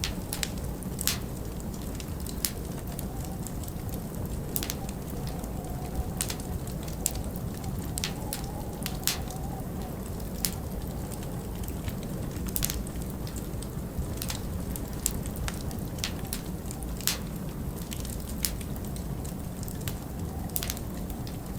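Wood fire crackling, with irregular sharp pops over a steady low rush of winter wind that carries a faint wavering whistle.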